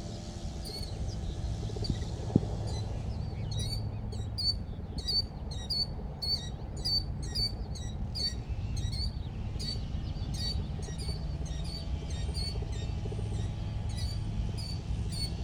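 Small birds chirping, with short sharp high calls repeated about twice a second, starting a few seconds in.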